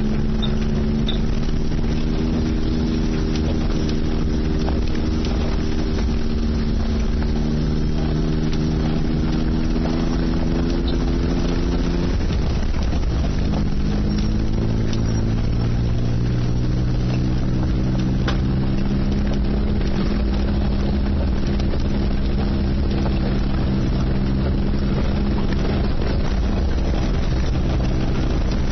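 Suzuki Jimny JA22's small three-cylinder engine running steadily under load while driving, with low rumble and wind on the microphone. About twelve seconds in the engine note breaks off briefly and comes back lower, as at a gear change.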